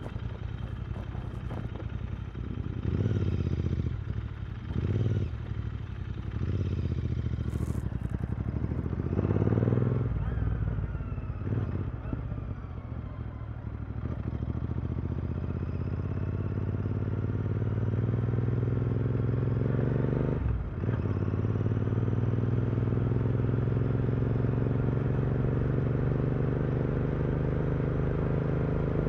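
Royal Enfield Continental GT 650's 648 cc parallel-twin engine, fitted with a Powerrage aftermarket exhaust, running under way. The revs rise and fall several times in the first ten seconds. After a short break about 20 seconds in, the engine note climbs steadily as the bike accelerates.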